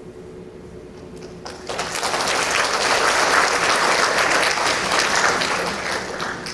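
Audience applauding, breaking out about two seconds in and easing off slightly near the end; before it only a faint steady hum is heard.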